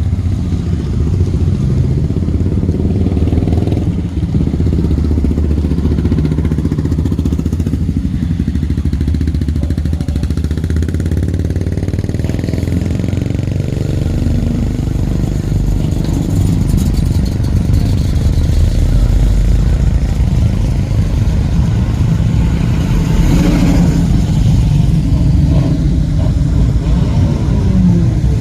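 Vintage car engines running with a steady low rumble.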